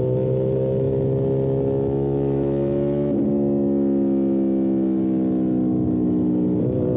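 Motorcycle engine running under way with a steady, loud note that climbs slowly, breaks briefly about three seconds in, then sinks slowly until another brief break near the end.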